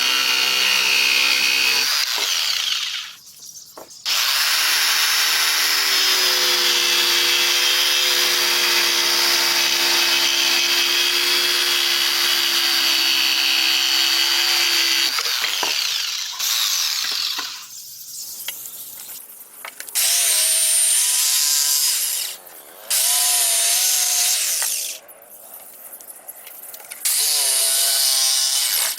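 Handheld electric power tool working wood in several runs, stopping and starting again with short pauses between them, its motor pitch wavering under load.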